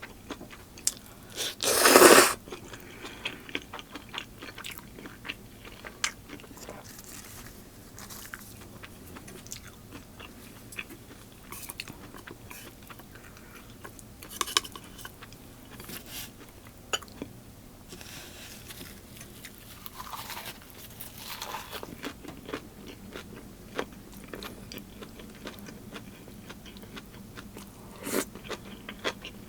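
Close-miked eating: a person biting and chewing crunchy food from a Korean bossam meal, with pork, lettuce wraps, kimchi and noodles on the table. Many small wet crunches and clicks, with one loud crunch about two seconds in.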